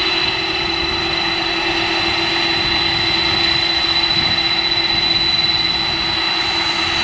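Jet airliner's turbofan engines running steadily at low power: a high, constant whine over a rushing noise, with a lower steady hum.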